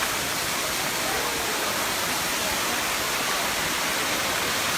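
Waterfall at Erawan Falls' seventh tier: a steady, unbroken rush of falling water.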